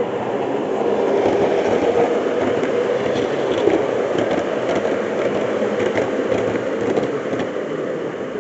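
Model train running along layout track: a steady rumble of wheels and motor with small clicks over the rail joints, growing a little louder in the first couple of seconds and easing off toward the end.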